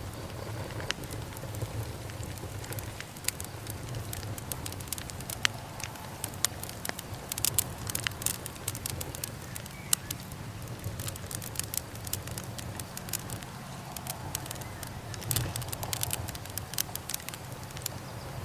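Burning wood crackling, with irregular sharp pops and snaps that come in thicker clusters about halfway through and again near the end, over a steady low rumble.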